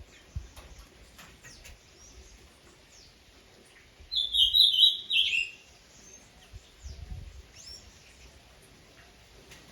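A bird calling: one loud rapid chattering run of high notes lasting about a second and a half, starting about four seconds in and dropping slightly in pitch at its end, with faint short chirps around it.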